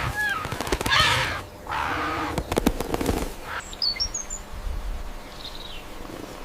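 Birds calling: a few loud, harsh calls in the first couple of seconds, a burst of sharp clicks, then short high chirps about halfway through.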